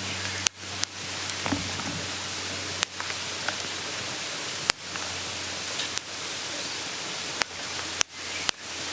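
Mountain stream babbling steadily, with a few sharp pops scattered through it, such as a campfire crackling.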